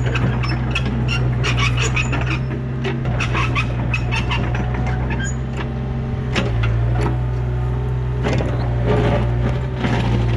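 Yanmar B37 mini excavator's diesel engine running steadily, its pitch shifting a couple of times as the hydraulics take load, with repeated short metal clanks and scrapes from the machine working with its dirt bucket.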